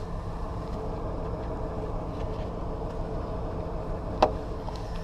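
Cadillac Eldorado's V8 engine idling steadily, heard from inside the car. About four seconds in there is a single short, sharp click.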